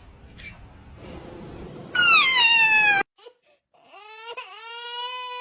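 A cat's loud meow falling in pitch about two seconds in, cut off abruptly, then after a brief silence a long drawn-out cat yowl that rises and holds a steady pitch.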